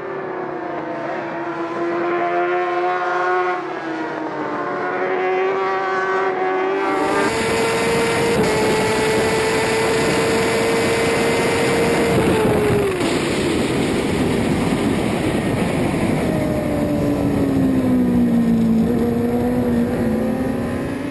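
Racing superbike engines at high revs, the pitch stepping up and down through gear changes. About seven seconds in, the sound switches abruptly to a louder, rougher engine note with a rush of wind noise, which holds steady before dropping off as the bike slows and then picking up again.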